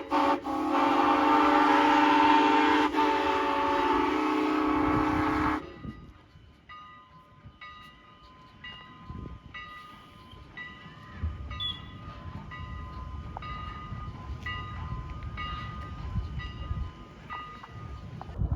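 A train horn sounds a loud, chorded blast, broken briefly just after it starts, and cuts off about five and a half seconds in. A bell then rings steadily, about two strokes a second, in the manner of a grade-crossing bell, while a low train rumble builds beneath it.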